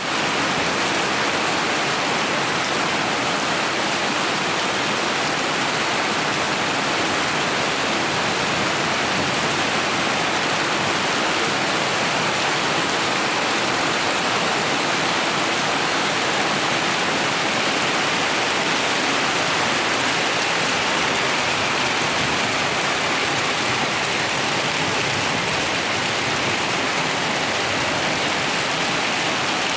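Rain falling together with the rush of a waterfall: a steady, unbroken hiss of water.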